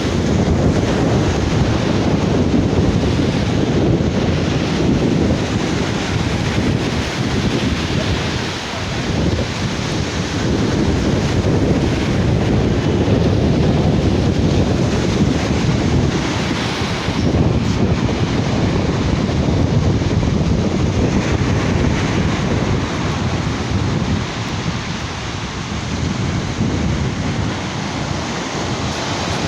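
Sea surf washing onto a beach, with wind buffeting the microphone in a loud low rumble that swells and eases.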